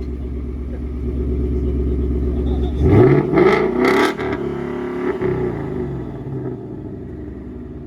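Car engine idling, revved hard once about three seconds in: the pitch climbs quickly, holds for about a second and a half, then falls back to idle.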